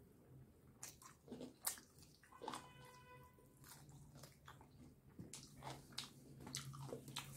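Close-up eating sounds: scattered wet smacks and mouth clicks as fried chicken meat is bitten and pulled off a drumstick bone and chewed.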